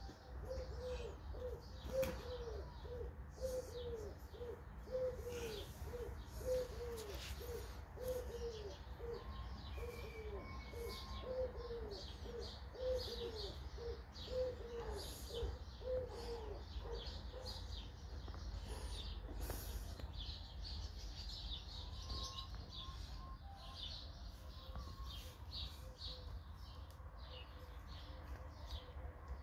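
Birds chirping steadily in quick short high notes. For the first half a run of short low calls repeats about twice a second, each dipping in pitch, and a steady low hum lies underneath.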